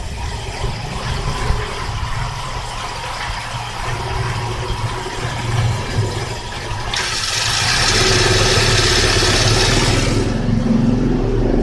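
Toyota Kijang LGX engine idling steadily, its idle holding even rather than hunting, which is what the idle adjustment is meant to achieve. About seven seconds in, a loud rushing hiss joins it for about three seconds.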